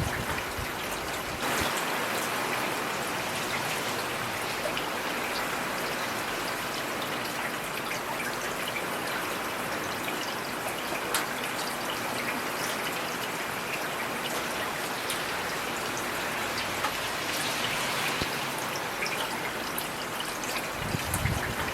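Steady heavy rain, a dense hiss with the crisp ticks of single drops striking throughout. It steps up slightly about a second and a half in, and a brief low rumble sounds near the end.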